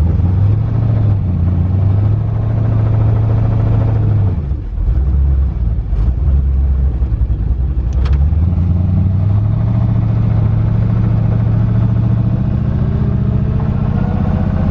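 LS V8 in a twin-turbo Fox Body Mustang, running without mufflers as the car drives, with a low, loud exhaust drone. The engine note drops briefly about four seconds in, then steadies, and rises in pitch near the end as the car speeds up.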